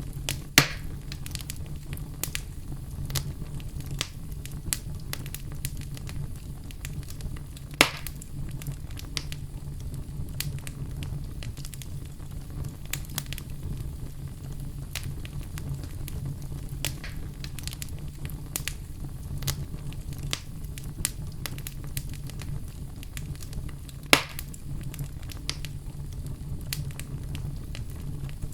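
Wood fire crackling in a fireplace: a steady low rumble of flames under frequent small crackles, with three sharp, much louder pops spread through it.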